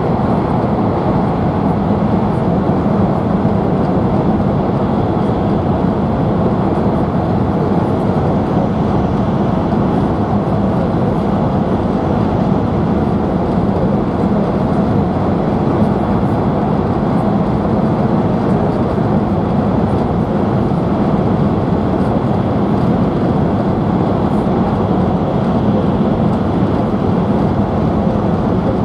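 Steady running noise of an E5 series Shinkansen heard from inside the passenger car: an even low rumble of wheels on rail and air rushing past the body, with no change in pitch or level, as the train cruises at speed.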